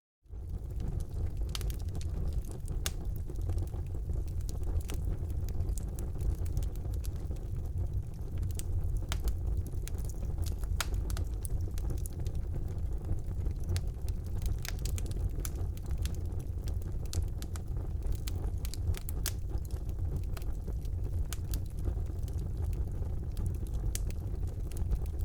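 Fireplace fire burning: a steady low rumble of flames with frequent sharp crackles and pops throughout, after a brief gap at the very start.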